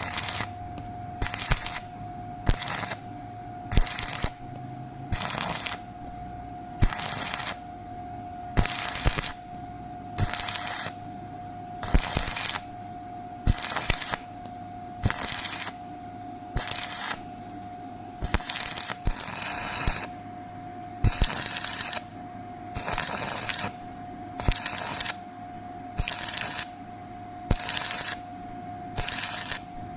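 Welding arc crackling in short repeated bursts, about one every second and a half, each lasting around half a second, over a steady hum.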